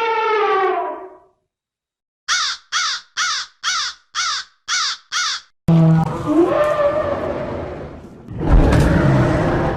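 A run of separate animal calls. A long pitched call fades out in the first second. After a pause come seven short harsh calls, about two a second. Then a longer, rougher call swells to a loud, noisy peak near the end.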